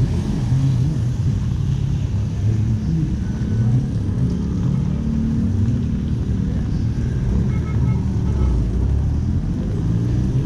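City street traffic: motor vehicles running and passing in a continuous low rumble that swells and fades.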